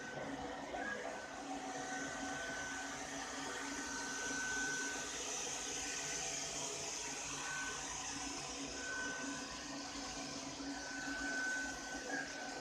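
Ropo Glass robot vacuum cleaner running: a steady whir of its suction fan and motor, with a thin high whistle that fades in and out several times.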